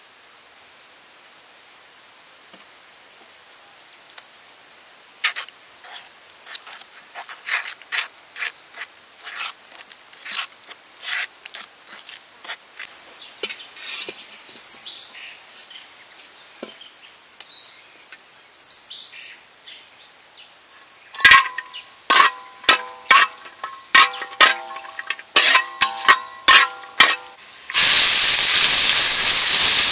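Scattered light clicks and taps with a few bird chirps, then a run of sharp metal clanks that ring on, from the steel wok or a utensil on it. Near the end a loud, steady sizzle starts as chopped garlic, ginger and onion go into hot oil in the wok.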